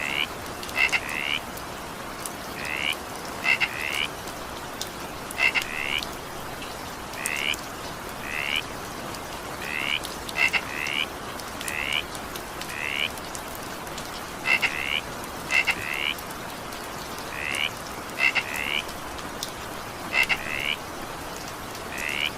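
Frogs croaking in short calls, often two or three in quick succession, repeating every second or so over the steady hiss of rain.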